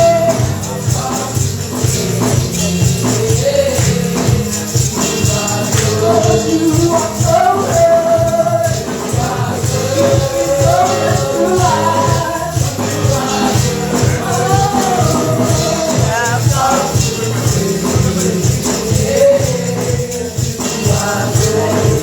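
Gospel praise music with a steady beat and tambourine, and voices singing a melody over it.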